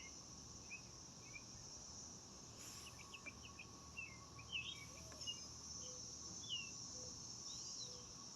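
Faint outdoor ambience: scattered short bird chirps and whistles over a steady high insect drone.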